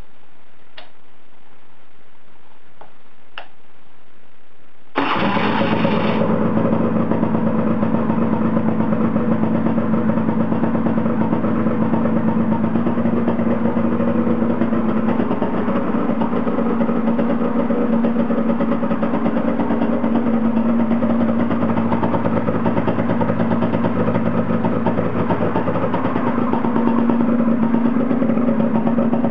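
Honda NSR125 two-stroke single-cylinder engine, breathing through an exhaust routed under the seat. After about five seconds of hiss with a couple of faint clicks, the engine comes in suddenly about five seconds in and keeps running steadily, a little louder near the end.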